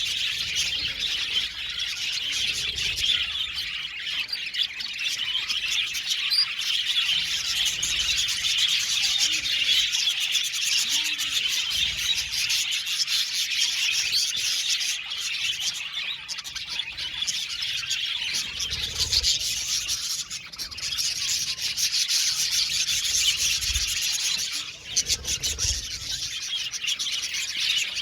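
A flock of budgerigars chirping and warbling together in a continuous, busy chatter.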